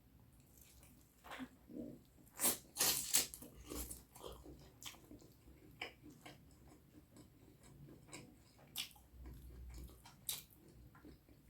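Close-miked eating sounds of curry and rice: wet chewing with sharp lip and mouth smacks, a quick flurry of them in the first few seconds, then scattered ones.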